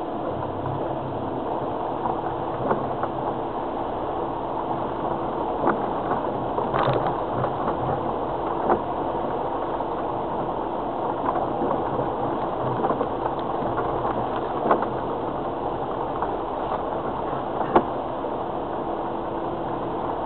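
Inside the cab of a Land Rover Freelander TD4 with its 2.0-litre turbo-diesel engine, crawling along a rough, rutted track: steady engine and cabin noise, with a handful of sharp knocks at irregular moments as the car rides over bumps.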